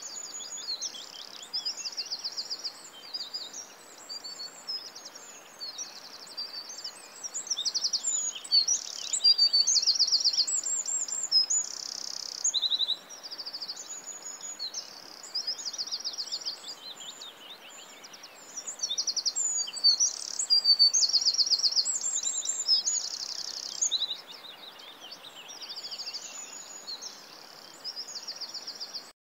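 Birds singing and chirping without a break, many calls overlapping, with fast trills, over a faint steady hiss.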